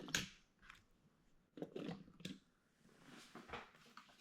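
Faint handling noises of small objects: short scrapes and crinkles in three brief clusters, near the start, in the middle and near the end.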